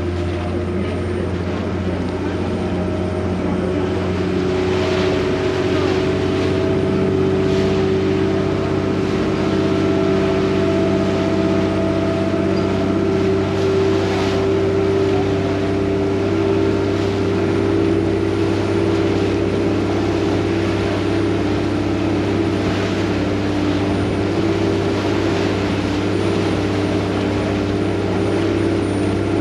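Vaporetto water bus's diesel engine running steadily under way, a constant low hum with a steady drone above it, heard from on board.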